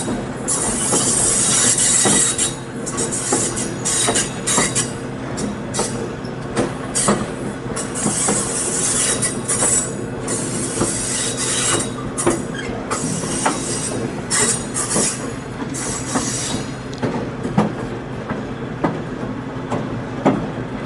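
Excursion train on the move, heard from aboard: the wheels squeal in repeated bursts on curves until about three-quarters of the way through, over a steady rumble of the running gear and scattered clacks from the rails.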